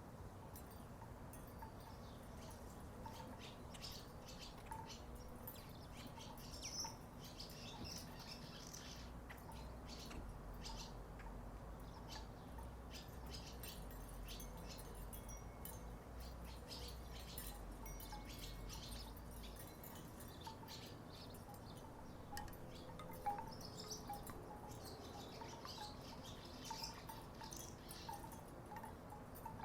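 Wooden tiki wind chimes knocking together in the breeze: irregular hollow clacks and short woody tones, scattered throughout.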